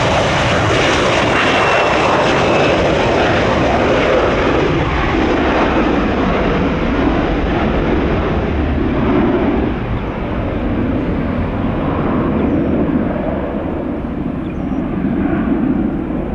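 Boeing 737 turbofan engines at takeoff power, a loud steady jet rush with a thin whine early on. The high end gradually fades over the last several seconds as the airliner climbs away.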